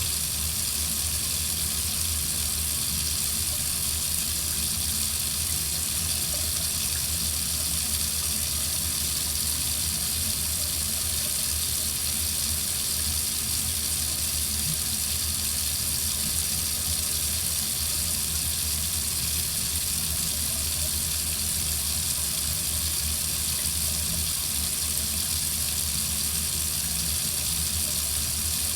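Water running from a faucet in a steady, unbroken stream.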